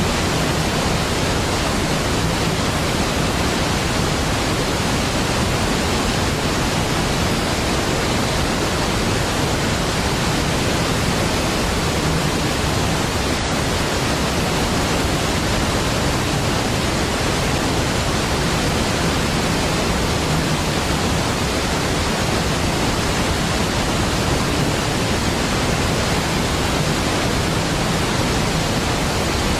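A large waterfall pouring: a steady, even rush of water with no breaks or changes.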